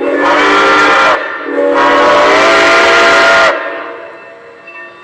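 Steam locomotive whistle of Santa Fe 4-8-4 No. 2926 blowing two loud blasts, the second longer, its pitch rising slightly as it is held.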